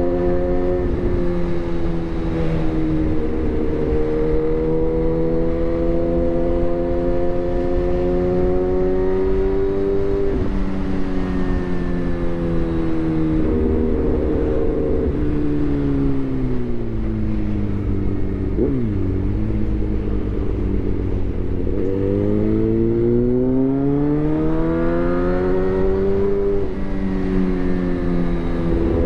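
Suzuki GSX-R1000's inline-four running through a replica SC-Project exhaust while riding. The engine pitch slowly rises and falls several times with throttle and gears, dropping to its lowest a little past halfway before climbing again.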